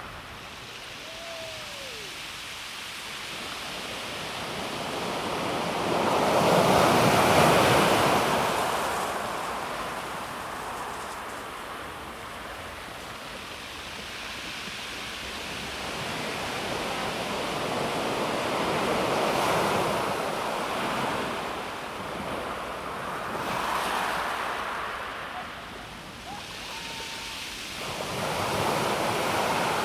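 Calm sea waves breaking and washing over a pebble beach, swelling and easing in slow surges, four in all, the loudest about seven seconds in.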